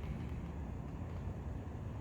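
Low, steady background rumble with no distinct events.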